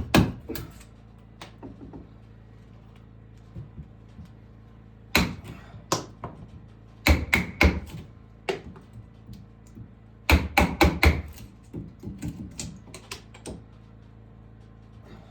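Hammer blows on wood in short runs of several quick strikes, with pauses and a few lighter taps between the runs.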